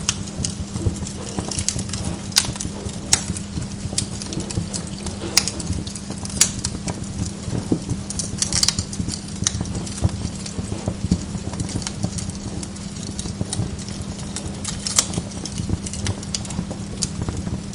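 Wood log fire in a fireplace crackling, with irregular sharp pops and snaps over a steady low hum.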